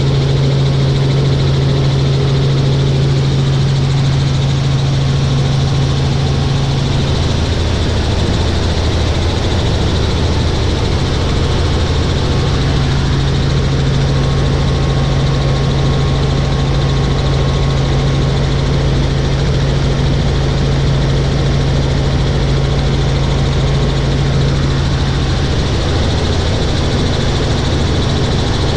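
Helicopter in flight: a loud, steady drone of engine and rotor with a strong low hum, which shifts slightly about seven seconds in.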